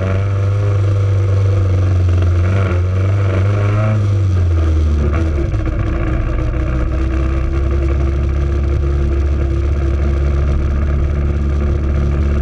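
Naturally aspirated Honda four-cylinder drag-race engine running at low revs, heard from inside the stripped cabin: a steady drone that drops to a lower pitch about four or five seconds in as the revs fall, then holds.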